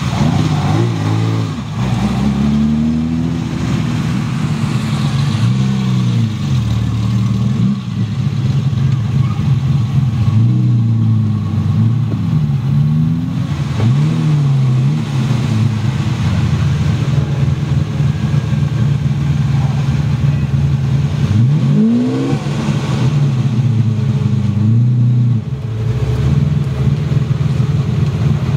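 Ferrari 275 GTB V12 engine idling with repeated throttle blips, the revs rising and falling again and again, with the sharpest rises about a third of the way in and near the end.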